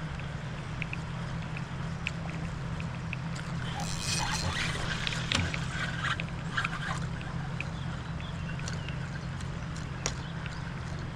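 Water splashing and dripping around a kayak, with a burst of splashing a few seconds in, over a steady low hum.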